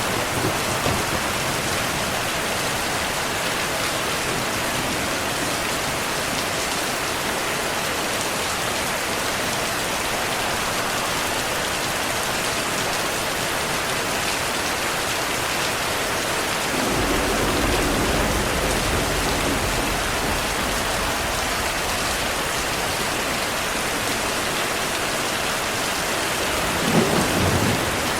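Steady rain falling, with a low roll of thunder rising about two thirds of the way in and lasting a few seconds, and a short thunder rumble near the end.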